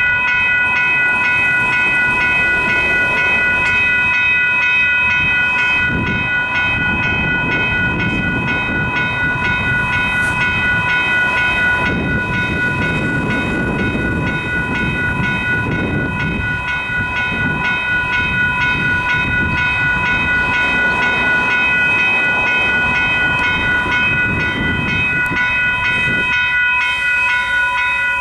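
Western Cullen Hayes electronic level-crossing bells, set to their quiet setting, ringing in quick repeated strokes. A train passes through the crossing, its rumble rising about six seconds in and fading away a couple of seconds before the end.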